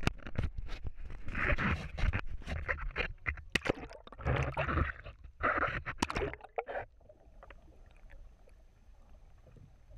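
Repeated knocks, clatter and scraping on a fishing boat, mixed with short breathy bursts of noise. It dies down to a faint background about seven seconds in.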